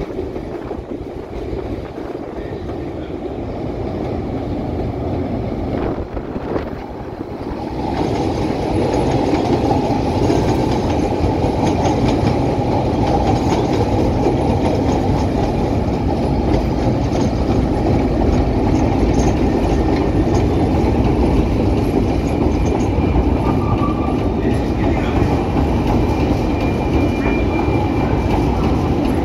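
CTA 'L' rapid-transit trains running into the station on elevated track: steady wheel-on-rail noise that grows louder about eight seconds in, as a train pulls in close alongside, with clickety-clack over the rail joints.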